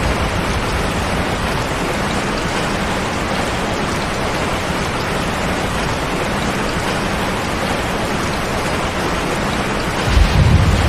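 Steady rain with running water: an even, unbroken hiss. A deeper low rumble swells in near the end.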